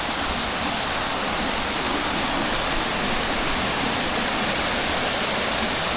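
Waterfall rushing steadily over rocks, a constant even roar of falling water.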